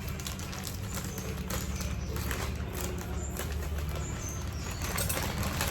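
Rustling and small clicks of a parcel's packaging being handled and cut open, over a steady low hum.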